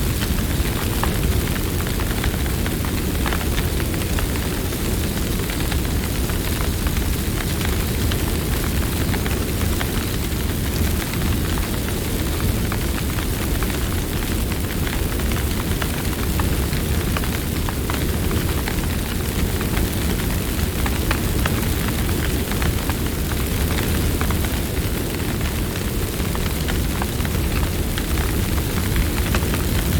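Campfire burning: a steady low rush from the flames with frequent small crackles and pops.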